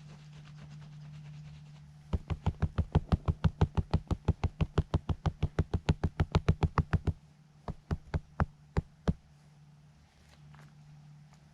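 Rapid, even knocking, about six or seven strikes a second for some five seconds, then a few slower single knocks.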